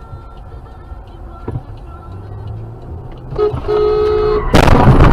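Low road and engine noise inside a moving car. About three and a half seconds in, a car horn sounds for about a second, then a sudden loud noise breaks in and stays loud, with a second sharp hit near the end.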